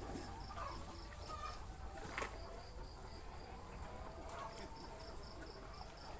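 An insect chirping in a high-pitched, evenly pulsed rhythm of about four chirps a second, in runs with a pause in the middle. A single sharp click sounds about two seconds in.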